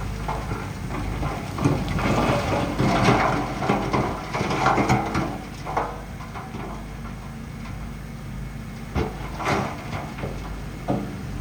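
Shantui bulldozer's diesel engine running steadily, with the rough clanking and scraping of its steel tracks and blade working through mud, heaviest in the first half, and a few sharp clanks near the end.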